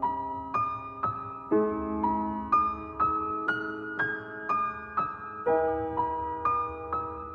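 Slow, soft piano introduction to a song, single notes struck about twice a second and left to ring and fade, with no singing yet.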